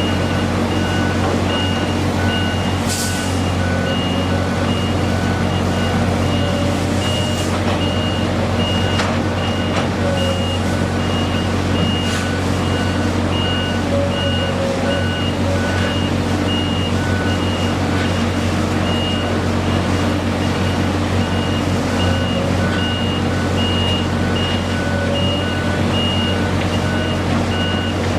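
Backup alarm of a construction vehicle beeping steadily about once a second over a running diesel engine, with a few short knocks and hisses of work machinery.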